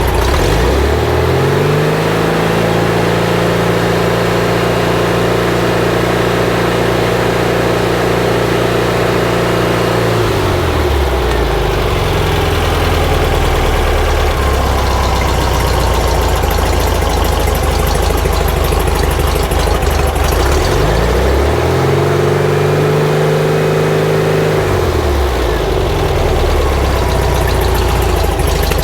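Air-cooled flat-four engine of a 1950s VW Bus revved up and held at a steady fast idle for about nine seconds, then dropping back to idle. About three quarters of the way through it is revved and held again for a few seconds before settling back to idle.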